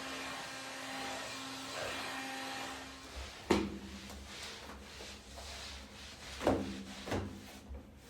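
A household appliance motor running steadily with a hum, which stops about three seconds in; a few sharp knocks follow.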